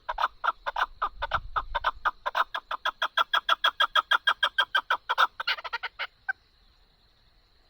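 Chukar partridge calling: a fast run of clucking notes, about seven a second, that stops about six seconds in.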